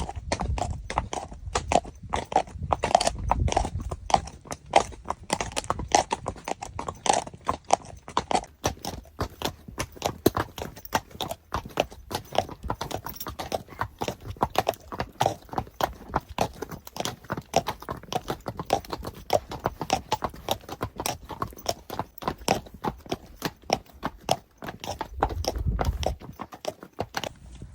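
Friesian horses' hooves clip-clopping, a dense, uneven run of sharp hoofbeats several a second.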